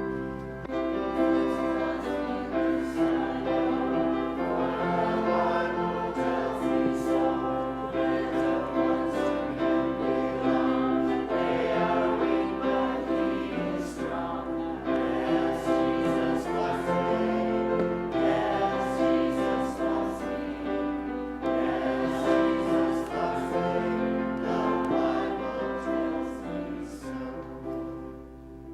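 Choir singing a hymn with piano accompaniment, fading down near the end.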